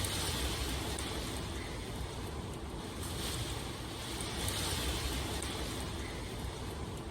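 Steady rain ambience: an even hiss of rainfall over a low rumble, swelling and easing every few seconds.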